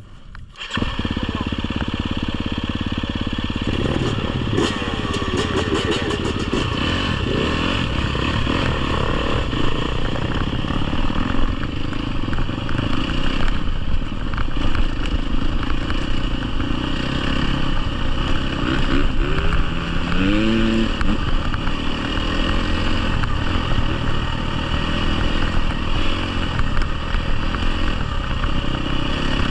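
Dirt bike engine, a GasGas EX250F 250cc four-stroke, running under way on a trail. It comes on loud about a second in and keeps going, with the revs rising and falling as the throttle changes, most clearly around the twenty-second mark.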